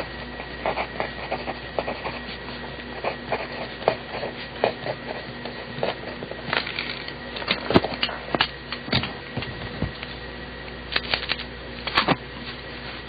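BIC mechanical pencil lead scratching across paper in irregular short strokes and taps while writing, over a steady hum.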